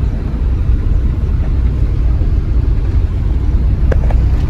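Steady low rumble of a moving vehicle with wind buffeting the microphone, and a single short click near the end.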